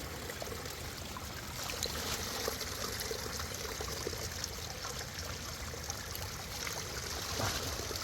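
Running river water: a steady, even rush of flowing water, with a few faint clicks.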